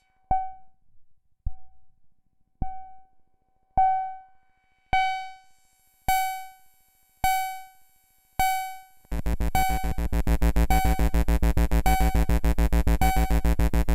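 ADDAC105 4-Voice Cluster eurorack synth module with one triggered voice pinging a short decaying note about once a second. About nine seconds in, a second layer comes in: a fast rapid stream of short notes over a loud low buzzing drone.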